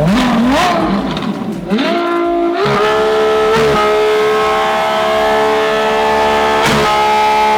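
A high-performance car engine is revved in quick up-and-down blips, then climbs and is held at a steady high rpm for several seconds. One onlooker asks whether it is being held at the top; the answer is that the revs got stuck there by themselves.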